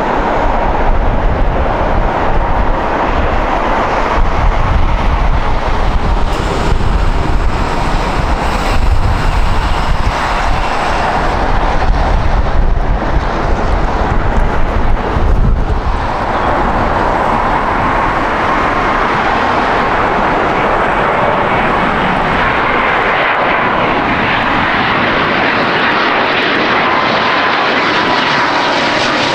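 Jet airliner engines passing close, loud and steady. A deep, fluctuating rumble fills the first half; about halfway through the rumble falls away, leaving a steady engine whine.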